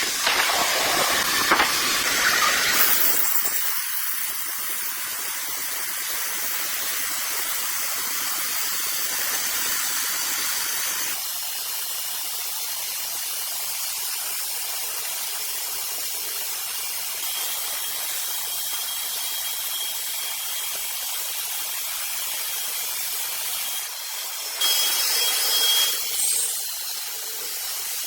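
Sawmill saw cutting through a rosewood log: a steady high hiss, louder for the first few seconds and again for a couple of seconds near the end.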